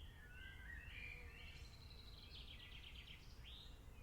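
Faint rainforest ambience: birds calling in repeated short notes, with a rapid trill about halfway through, over a low steady background hum.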